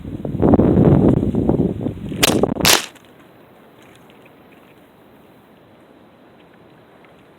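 Wind buffeting the microphone, then two sharp cracks about a third of a second apart, after which the sound cuts off abruptly to a quiet steady background with faint ticks.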